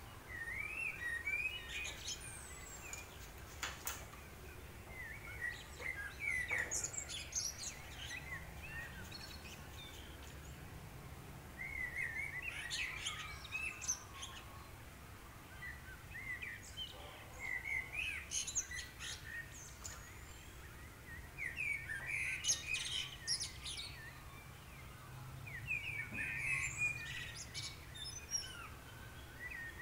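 Small birds chirping and singing in short clusters every few seconds over a low steady hum.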